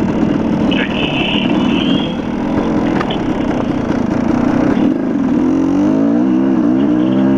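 Dirt bike engine running while riding a trail, its revs rising and falling as the throttle changes, most plainly in the second half.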